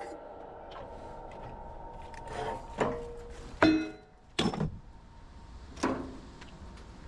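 Metal clanking from scrap transformers being knocked apart: a fading metallic ring at first, then four separate sharp knocks spread over a few seconds, one of them ringing briefly.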